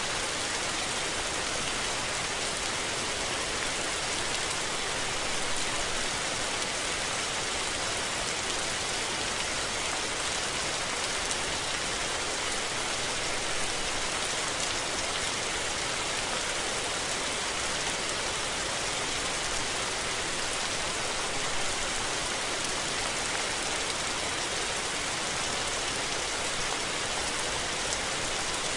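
Steady rain falling on surfaces, an even hiss of many drops, with no thunder.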